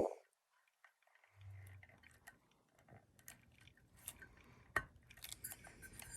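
Faint scattered clicks and light taps of small hard parts being handled, with one sharper click about three-quarters of the way through.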